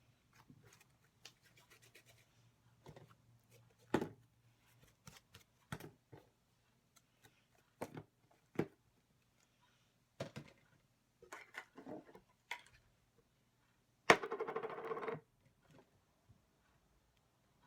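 Slime being squeezed and poked, making scattered faint sticky clicks and crackles, with one louder squelch lasting about a second near the end.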